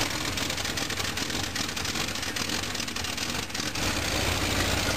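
1967 Dodge Camper Special's big-block V8 on a cold start after sitting for a month: it runs ragged for the first few seconds, then settles into a steady low idle almost four seconds in.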